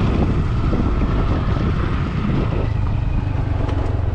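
Motor vehicle engine running at low speed on a rough track, a steady low rumble, with wind buffeting the microphone.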